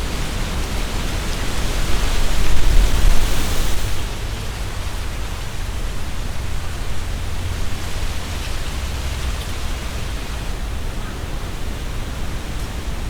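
Strong wind blowing through trees, leaves rustling, over a low rumble. A louder gust swells about two seconds in and dies down about four seconds in.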